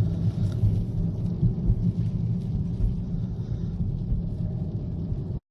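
Steady low rumble of a car driving, heard from inside the cabin, cutting off abruptly near the end.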